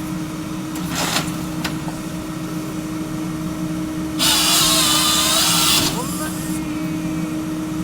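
Forestry harvester on a small 0.25 m³-class excavator running with a steady engine and hydraulic hum; about four seconds in, the head's saw makes a loud cut lasting under two seconds, then the machine settles back to its hum.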